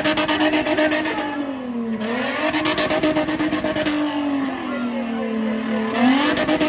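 Spinning car's engine held at high revs, the pitch dipping briefly about two seconds in, sagging lower for a couple of seconds later on, then climbing back near the end.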